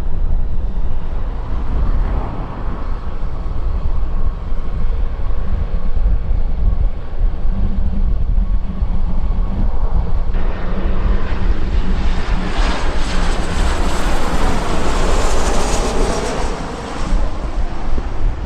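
An airliner's engines pass by, growing louder from about ten seconds in, loudest a few seconds later, then fading. Steady wind buffets the microphone throughout.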